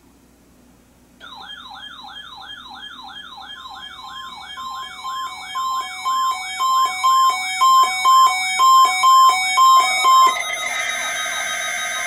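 Several NOAA weather radios sounding their alerts for a required weekly test. From about a second in, one gives an electronic siren tone that wails up and down about twice a second. Beeps at about two a second join it and grow louder. Near the end the siren stops, leaving a jumble of steady alert tones and beeps.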